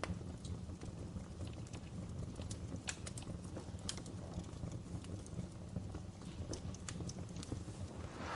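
Fireplace fire crackling: scattered sharp snaps and pops over a steady low rumble of the flames, with a louder pop near the end.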